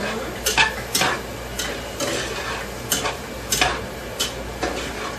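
Mushrooms frying in butter in a pan with a steady sizzle, while a utensil is stirred through them, knocking and scraping against the pan in short strikes about once a second.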